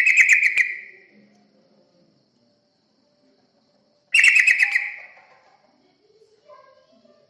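Yellow-vented bulbul (terucukan) call played as a lure: two short chattering bursts about four seconds apart, each a rapid string of notes that fades over about a second. A few fainter, lower notes follow near the end.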